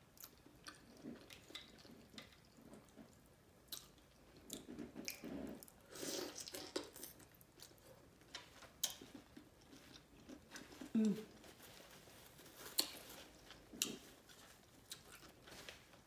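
Close-miked chewing and wet mouth sounds of someone eating sauce-coated shrimp and lobster, with sharp lip smacks now and then, the loudest near the middle and about two-thirds of the way through.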